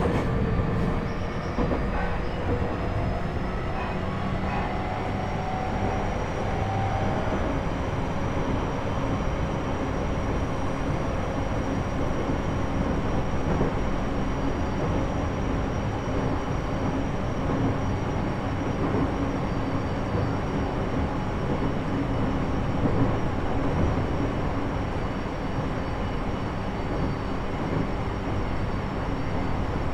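Interior running sound of a JR East E127 series electric multiple unit, recorded in the motor car KuMoHa E127-11: continuous wheel-and-rail noise with steady whining tones from the Toyo Denki traction motors and their 14:99 gearing. The whine rises slightly over the first few seconds and then holds at a constant pitch. This car is known for an abnormal gear sound, a note a semitone above the usual minor-seventh gear tone.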